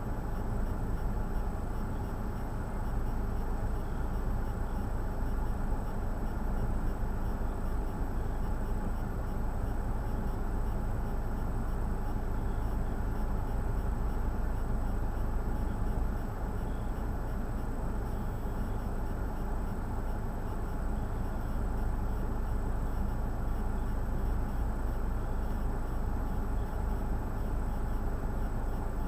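Steady car engine and road rumble from inside a car's cabin, low and even throughout.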